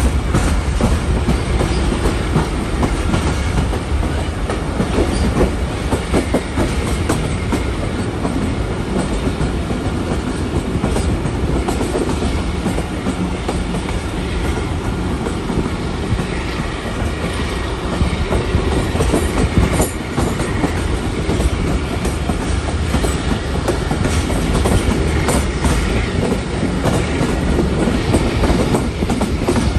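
Passenger train coaches running along the track, heard from aboard: a steady loud rumble of wheels on rails with irregular knocks and clatter.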